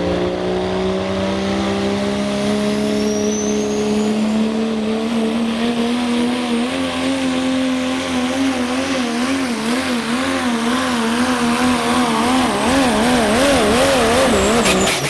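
Pro stock diesel 4x4 truck engine running at full throttle under load while pulling the sled, its note slowly climbing in pitch. From about halfway on, the engine note wavers rapidly up and down, more and more toward the end, as the revs surge, and it drops off sharply at the very end. A faint high whine rises briefly about three seconds in.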